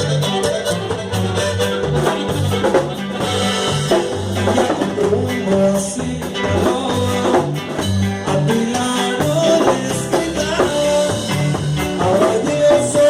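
Norteño band music: a melody line over a bass line that steps from note to note at a steady beat.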